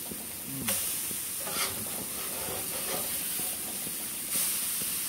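Beef burger patties frying in their own fat on a hot plate: a steady sizzling hiss with small crackles, stepping up in loudness twice, just under a second in and again about four seconds in.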